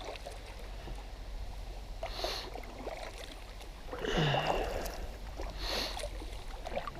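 Kayak paddle strokes dipping and pulling through the water, three splashy strokes under two seconds apart over a steady low rumble.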